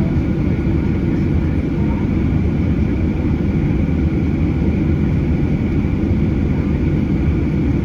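Boeing 737-800's CFM56-7B jet engines and airflow heard inside the cabin: a loud, steady low rumble with a faint steady whine above it, typical of takeoff power or climb.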